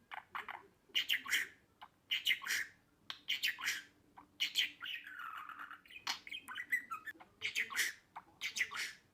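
Budgerigar chattering in short chirpy bursts about once a second, with a longer warble about halfway through.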